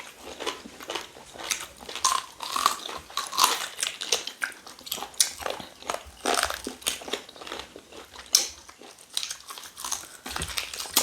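Close-up chewing and biting on cow tail, meat being gnawed off the bone with wet smacking and crunching, irregular bites throughout.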